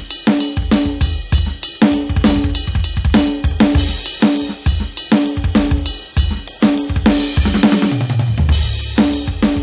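Roland TD-17KVX electronic drum kit played in a steady groove of bass drum, snare and cymbals. About eight seconds in, a tom fill steps down in pitch and lands on a crash.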